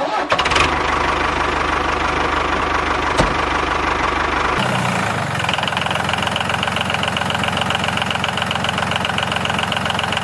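Motor of a DIY mini tractor running steadily with a fast rattle, with a single click about three seconds in. The sound changes character about four and a half seconds in, taking on a higher buzzing tone.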